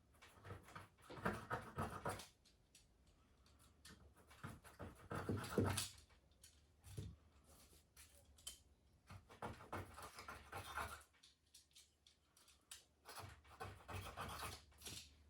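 A knife scraping worn pads off instrument bars, in about four short bouts of rasping strokes with quiet pauses between.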